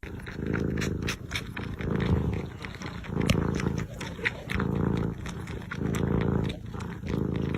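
A cat purring, a low pulsing rumble that swells with each breath in and out, about one breath every second and a bit.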